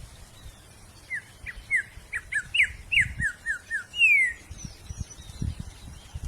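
Wild songbird singing: a quick run of about a dozen short, downward-slurred whistled notes, about four a second, ending in one longer falling whistle. Low rumbles come in near the end.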